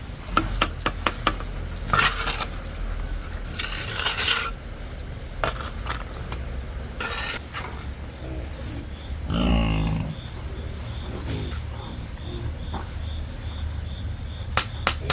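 Scattered sharp metallic clinks and knocks, with a few short scraping bursts, over a steady background of chirping crickets.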